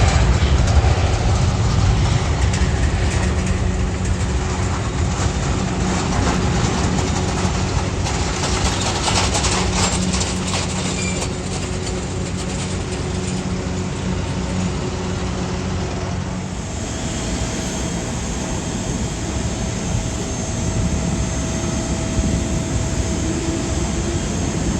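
Jet airliner engines running: a loud, steady rumble. About 16 seconds in it switches abruptly to a steadier engine sound with a thin high whine over it.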